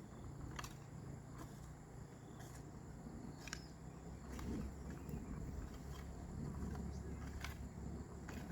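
Quiet outdoor ambience with a low rumble and a faint steady high tone, broken by several light clicks and knocks.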